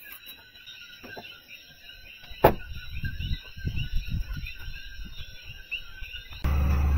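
Faint repeated high chirping in the background, a single sharp click about two and a half seconds in, then irregular low knocks and handling noise. Near the end a car engine running at a steady idle comes in suddenly and loudly.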